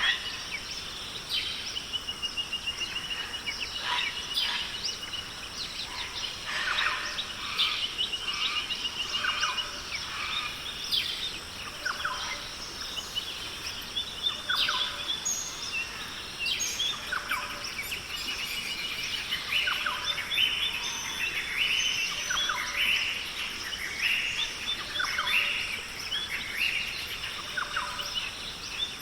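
Rainforest birds calling: many short falling whistles, with a rapid trill in the first few seconds, over a steady high-pitched hum.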